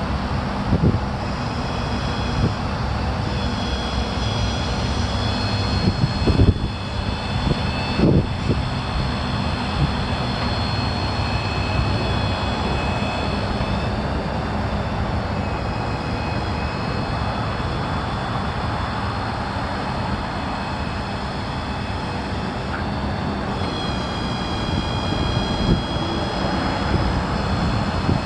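Ford F550's 6.7-litre turbo diesel engine running steadily with a low hum. A thin high whine comes and goes over it, and a couple of knocks sound about six to eight seconds in.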